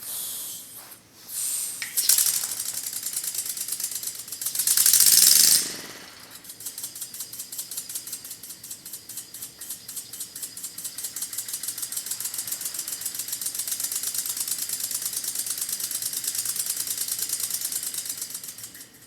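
Small homemade spool valve steam engine running on canned air: a few bursts of hissing air, the loudest about five seconds in, then a fast, even puffing of exhaust that carries on until the air is shut off near the end.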